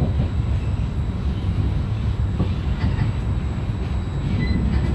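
Trenitalia regional train running along the track, heard from inside the passenger carriage: a steady low rumble.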